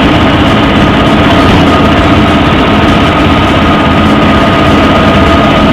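Steady, loud running noise of a three-wheeler rickshaw carrying passengers along a road, heard from on board: a constant rumble with a faint steady whine.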